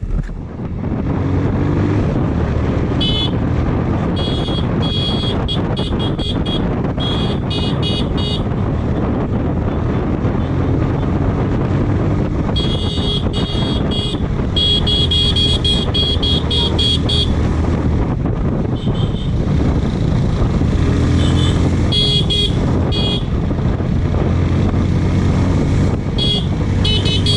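Motorcycle riding along with steady engine and wind noise, its horn beeped again and again in quick strings of short toots, several times through the ride.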